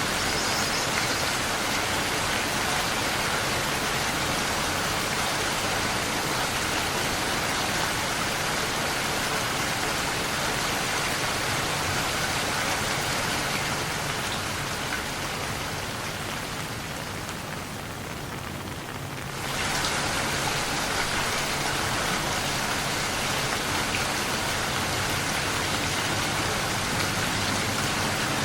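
Steady rain falling. It fades gradually a little past the middle, then comes back at full strength suddenly about two-thirds of the way through.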